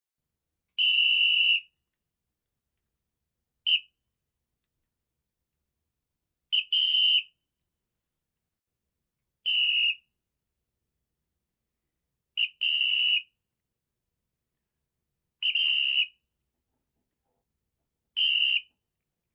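A high, whistle-like squeak sounds seven times, about three seconds apart, with silence between. Some come as a quick double, a short chirp followed by a longer note.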